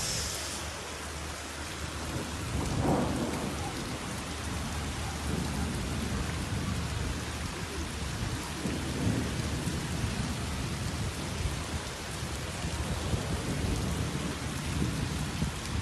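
Heavy rain pouring steadily, with low rumbles swelling and fading several times during a summer flash-flood storm.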